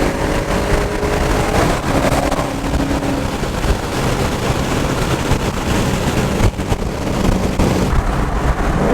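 Ford Mustang's Gen 1 Coyote 5.0 V8 under way, a loud steady mix of engine, tyre and wind noise with faint steady engine tones.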